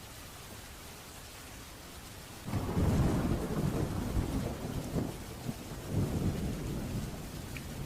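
Steady rain, then about two and a half seconds in a sudden crack of thunder that rolls on as a deep rumble, surging several times.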